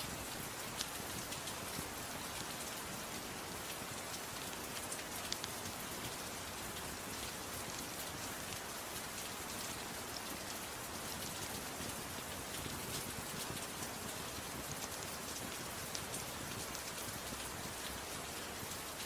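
Steady gentle rain, an even hiss, mixed with the faint crackle of a fireplace: many small scattered clicks, a couple slightly sharper about one and five seconds in.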